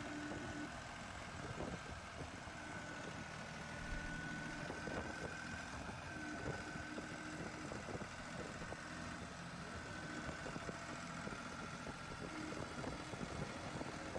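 Six-wheeled tractor's engine running steadily, with a steady high whine above the engine note.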